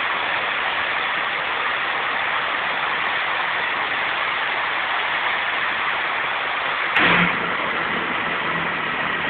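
Steady engine noise of diesel trains running at a station platform, with a brief knock about seven seconds in, after which a low hum joins.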